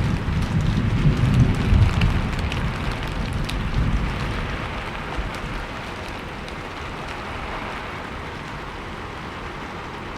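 Steady rainfall hissing, with scattered drop ticks. A low rumble of thunder dies away over the first few seconds, leaving only the rain.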